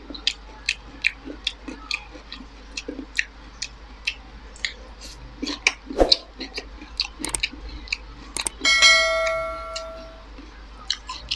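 Close-miked chewing: many small wet mouth clicks and smacks, about three or four a second. About two-thirds of the way through, a bright bell chime rings out and fades over about a second and a half. It is the sound effect of an on-screen subscribe-button animation.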